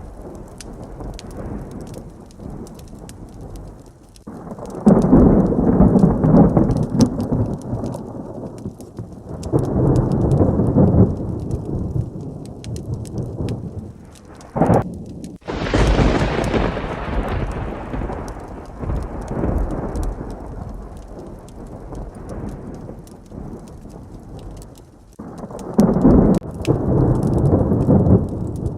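Heavy rain with thunder: several low rolling rumbles that swell and fade. About halfway there is a sharp, close thunderclap, which dies away in a long roll.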